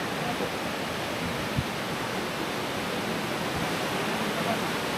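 Waterfall rushing: the steady, even noise of a large volume of falling water.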